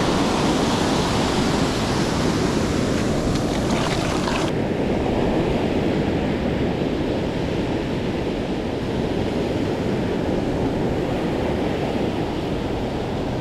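Ocean surf washing onto the beach, a steady rushing wash with wind buffeting the microphone. About four and a half seconds in, the hissy top of the sound drops away abruptly and it turns duller.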